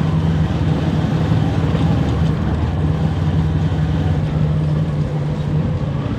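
Motorcycle engine running steadily while under way, holding an even pitch.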